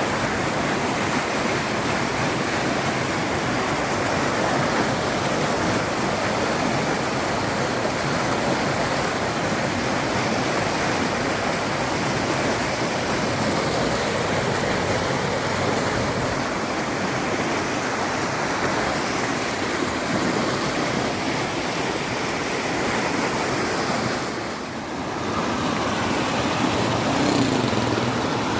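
Swollen river in flood after heavy rain, its water rushing past in a loud, steady noise that dips briefly near the end.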